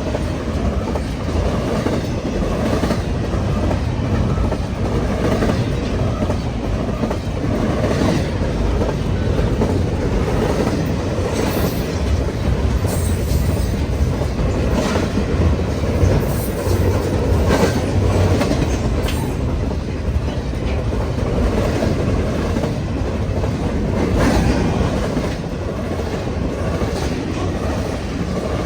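A long freight train's cars rolling past the crossing: a steady rumble with irregular clattering clicks from the wheels.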